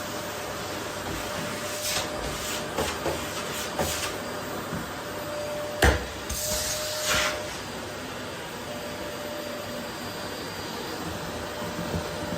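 Vacuum cleaner running steadily with a faint whine, its nozzle worked over a wooden floor. Scattered clicks and rattles, a sharp knock about six seconds in, then a brief rushing sound as debris is sucked up.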